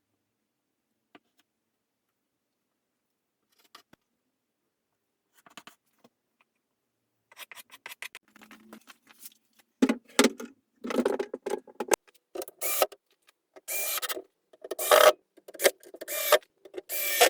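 A few faint clicks, then from about ten seconds in, repeated short abrasive strokes on wood, about one a second.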